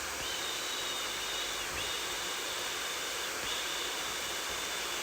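Hair dryer blowing steadily: an even hiss, with a thin high whine on top that breaks off briefly and comes back about every second and a half.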